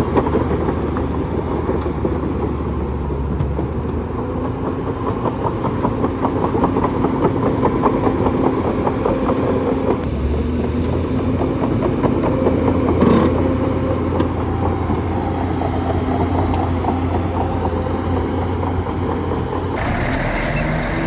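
Bulldozer's diesel engine running with a rapid, even chug, its low hum shifting in pitch twice, and a sharp knock about halfway through.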